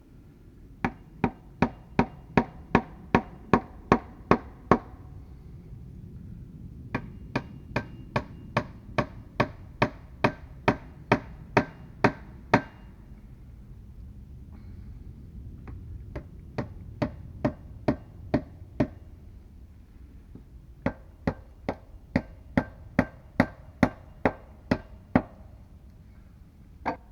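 A hand tool striking wood in quick runs of sharp knocks, about three blows a second. There are four runs of roughly seven to fourteen blows each, with short pauses between them, and one last blow near the end.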